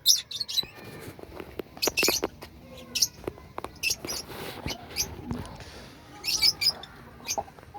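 Budgerigars chirping in short, scattered bursts of high chirps, with a few sharp clicks in between.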